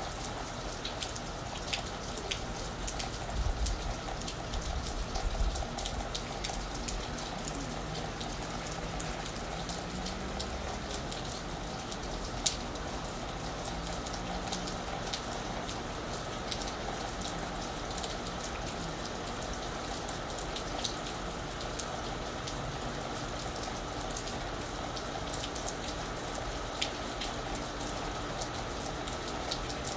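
Steady rain falling on a roof, with many individual drops ticking sharply over an even hiss, one drop louder than the rest about halfway through.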